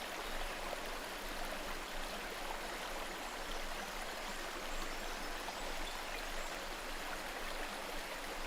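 Rainwater cascading down rocky slopes: a steady, even rush of flowing water.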